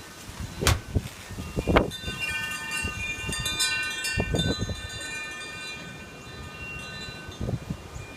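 Wind chimes ringing in gusty wind: several metal tones sound over and over from about two seconds in and die away near the end. Gusts buffet the microphone with a few low rumbles.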